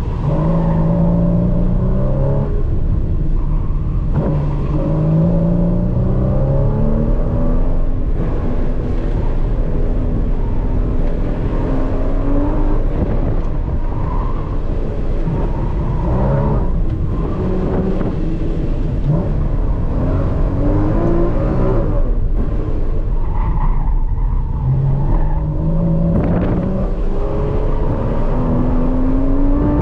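Porsche sports car's engine heard from inside the cabin on an autocross run, climbing in pitch under hard acceleration and dropping back when the driver lifts for the next cone, over and over.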